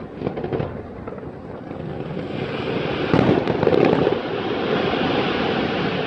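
Fireworks going off: a few sharp cracks at first, then a swelling mass of bursts that is loudest a little past halfway, followed by a continuous crackling hiss.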